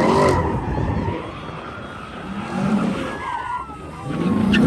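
A car engine revving hard in repeated swells during a donut or drift, with tires squealing and skidding on pavement. Loudest at the start and again near the end, with a squeal that slides down in pitch about three seconds in.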